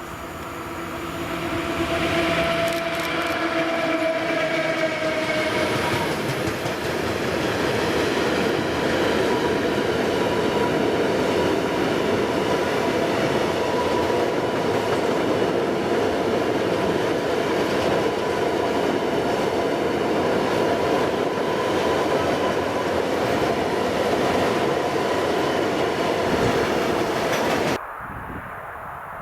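A train passing close by at speed, with the heavy rolling noise of its wheels on the rails. For the first six seconds a pitched tone sounds over it, falling slightly. The sound cuts off abruptly near the end.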